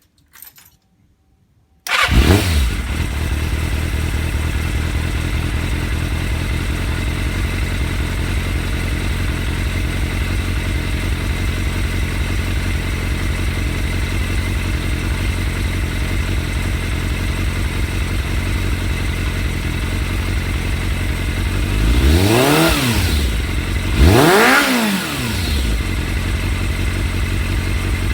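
Suzuki Impulse 400 inline-four engine breathing through a WR'S aftermarket exhaust, starting about two seconds in and then idling steadily. Near the end it is revved twice in quick succession, each a short rise and fall in pitch, before settling back to idle.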